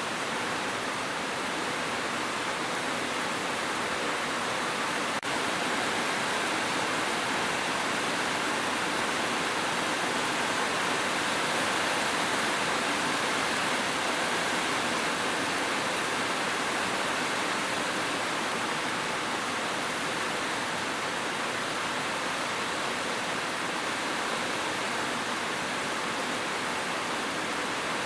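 Steady rain noise: a dense, even hiss with no separate drops or thunder standing out, and one brief dip about five seconds in.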